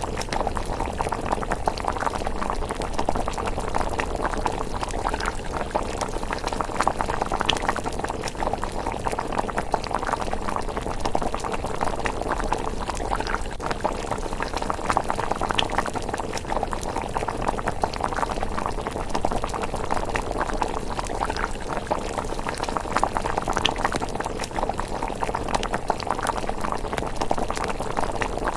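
Thick rice porridge bubbling steadily in a pot at a simmer, a dense stream of small rapid pops, with an occasional sharper crackle.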